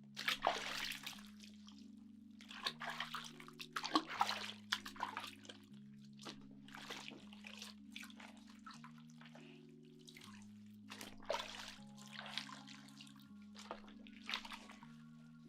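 Irregular splashing and dripping of water over soft, slow background music.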